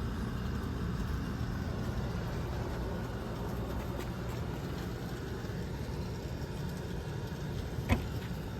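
2010 Everstar 10,000 BTU portable air conditioner running with a steady low hum. A single sharp click near the end.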